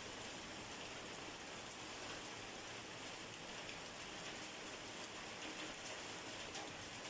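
Steady rain falling, a constant hiss with fine patter of drops on a surface.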